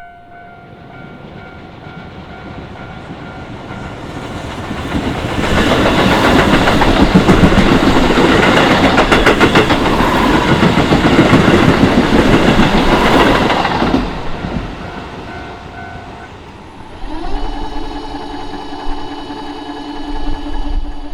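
Keisei Main Line train passing over a level crossing: it builds up over several seconds, runs loud with rapid wheel clacking over the rail joints for about eight seconds, then fades away. Steady ringing tones, typical of the crossing's warning signal, show faintly around the train and grow louder near the end.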